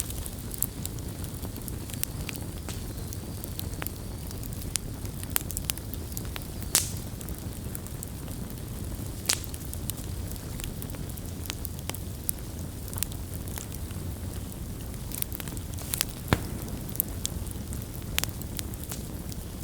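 Campfire crackling: a steady low rumble of burning wood under irregular sharp pops and snaps, with a few louder pops scattered through.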